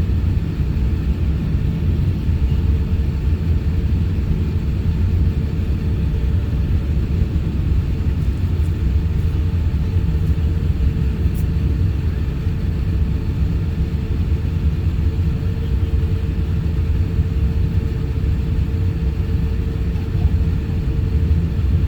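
Airliner cabin noise aboard an Airbus A350-1000: a steady low rumble of engines and airflow with a faint steady hum above it.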